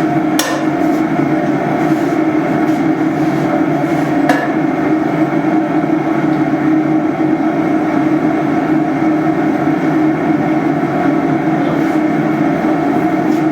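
Forge running steadily, a loud continuous noise without rhythm, with a couple of faint metallic clicks.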